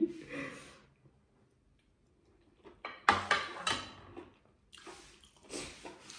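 Close-miked chewing of a mouthful of stir-fried pork and bok choy: short wet, crunchy crackles about three seconds in and again near the end, after a second or two of near silence.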